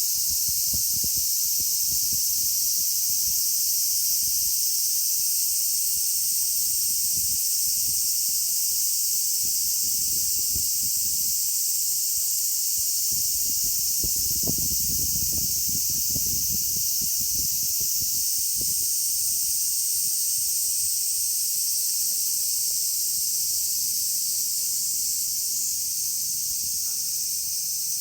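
Cicadas buzzing in a steady, high-pitched chorus, with low rumbles and knocks underneath, heaviest about halfway through.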